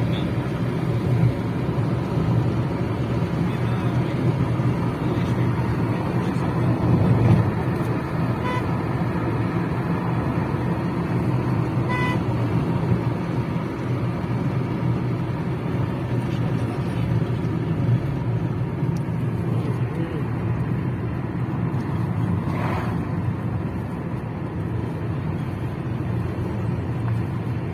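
Steady engine and road noise of a moving car, heard from inside the cabin: a continuous low hum with an even rush of tyre and wind noise.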